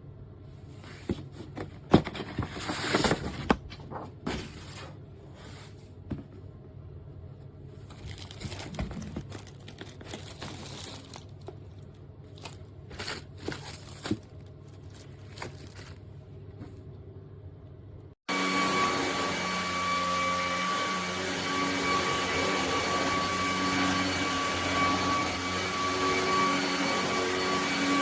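Scattered clicks, rustles and crinkling from handling. About two-thirds of the way in, the ElecKeys K10 cordless stick vacuum's motor starts abruptly and runs steadily and loudly, with a high whine.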